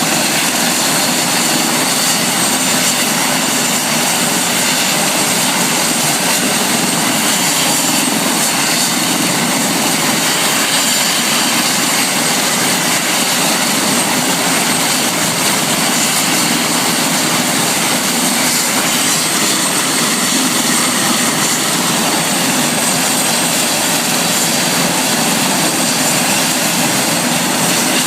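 Helicopter turbine and rotor noise, loud and steady throughout, with a faint high whine held over it.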